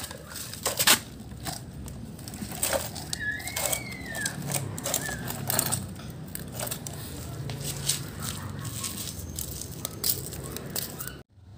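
Irregular clicking and clattering of plastic toy trucks and excavator parts being handled and fitted together.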